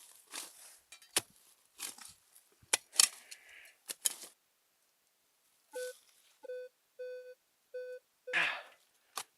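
Sharp clicks and scraping sounds, then after a short pause a metal detector sounds about five short beeps at one steady mid pitch, signalling a metal target, followed by a rustling scrape near the end.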